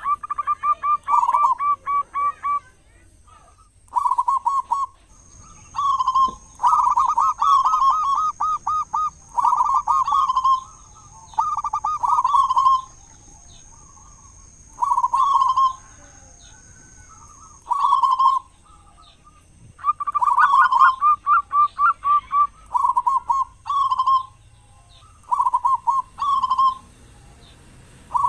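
Zebra dove (perkutut) singing: about a dozen short phrases of rapid, rolling coos, each about a second long, separated by brief pauses.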